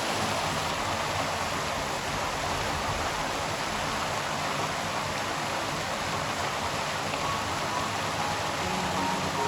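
River water flowing in a steady, even rush. Faint musical notes begin to come in near the end.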